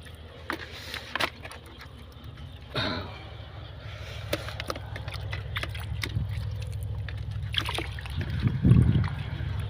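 Water sloshing and splashing, with scattered small clicks over a steady low rumble that grows louder toward the end, and a brief louder burst about three seconds in and another near the end.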